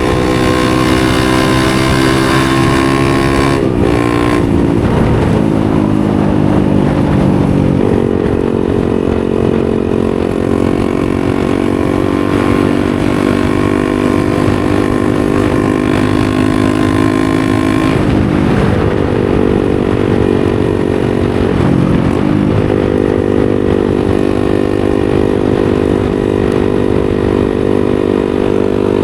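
A 250 cc supermoto motorcycle engine being ridden. Its pitch climbs, then breaks briefly just before 4 s and falls over the next few seconds. It holds a steady pitch for a long stretch, with two more short breaks and dips about two-thirds of the way through, typical of gear changes.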